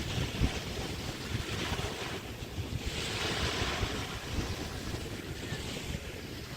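Small Chesapeake Bay waves breaking and washing up a beach, the hiss swelling and fading every couple of seconds, strongest about halfway through. Wind buffets the microphone throughout.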